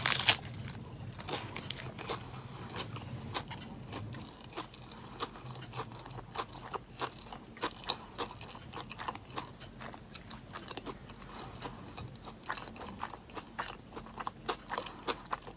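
A bite into a lettuce-wrapped plant-based burger, the loudest sound, right at the start, then steady chewing with many small sharp clicks throughout.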